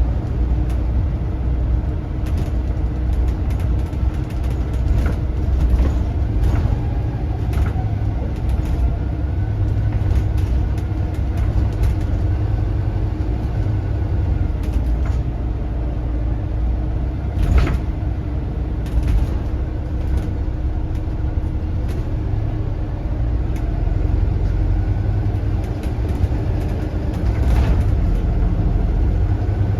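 Volvo B7RLE bus's six-cylinder turbodiesel running under way, heard from inside the saloon as a steady low drone with a faint turbo whistle. Short rattles and knocks from the body sound now and then, the loudest a little past halfway.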